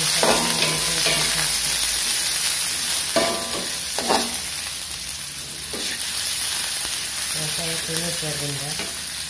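Sliced shallots and garlic sizzling in hot oil in a wok, stirred with a spatula that scrapes and knocks against the pan a few times.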